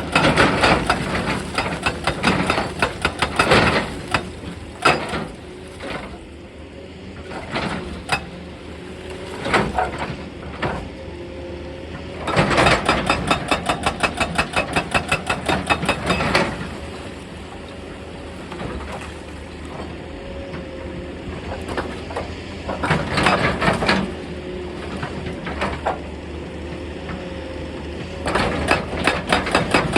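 Excavator-mounted hydraulic breaker hammering rock in several bursts of rapid, evenly spaced blows, several a second. The longest burst lasts about four seconds near the middle. Between bursts the excavator's engine runs steadily.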